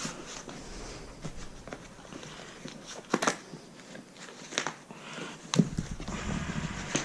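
Hand tools being picked up and handled while working on a motorcycle exhaust: a few separate clicks and knocks over a low hiss, with some rustling near the end.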